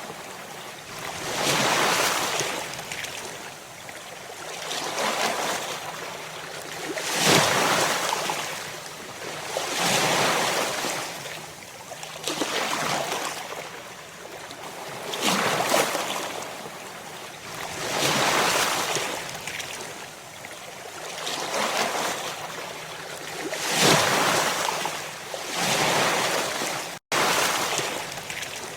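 Ocean surf: waves breaking one after another, each a rushing swell that rises and falls about every two to three seconds. The sound cuts out for an instant near the end.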